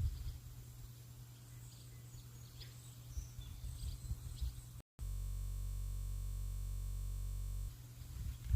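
Faint, brief bird chirps over a low, uneven outdoor rumble. Just before the midpoint the sound cuts out for a moment, then a steady, unchanging electronic drone runs for about three seconds before the rumble comes back near the end.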